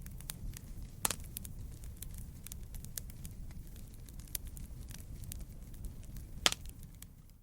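Fire burning in a fireplace: a steady low rumble with frequent small crackles and two louder pops, about a second in and near the end.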